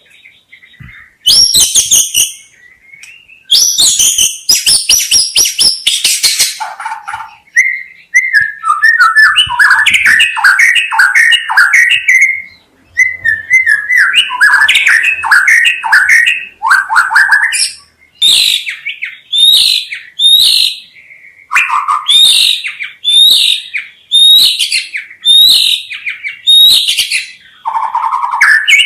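White-rumped shama (murai batu) singing a long, varied song. Rapid clicking trills come first, then warbling runs of quick notes, and in the last third separate sharp whistled phrases about once a second.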